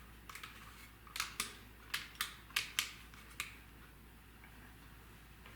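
A quick run of sharp clicks or taps, about seven loud ones over two seconds, with a few fainter ticks just before them.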